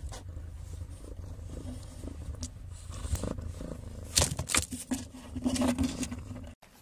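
Domestic cat purring steadily close to the microphone, with a few sharp knocks and rustles about three and four seconds in as it squirms in a wooden drawer.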